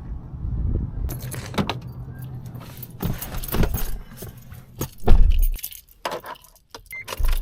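Keys jangling and clicking, with handling knocks, a heavy thump about five seconds in and a short electronic beep near the end.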